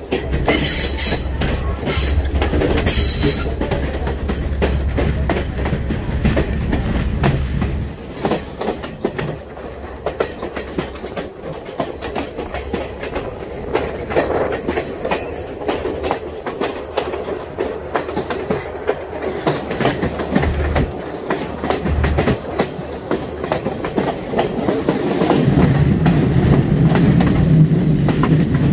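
Train running along the track: a steady rumble with rapid clicking of wheels over the rails. A few short high screeches come in the first three seconds, and the running grows louder and deeper near the end.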